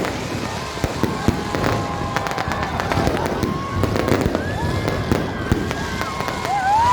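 Fireworks and firecrackers going off, a dense run of sharp pops and crackles in quick succession, with voices over them.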